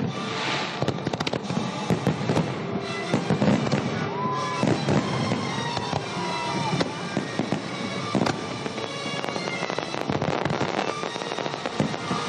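Fireworks salute: a dense, continuous series of shell bursts and crackling reports.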